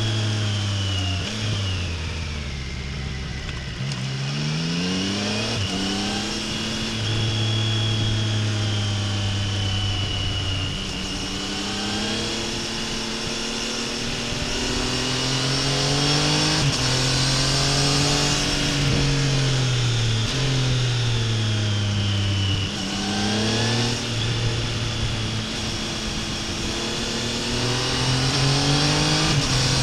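Exhaust of a 2025 Triumph Tiger Sport 800's three-cylinder engine under way, its pitch climbing and dropping again and again as the bike accelerates and changes gear, with stretches of steadier running in between.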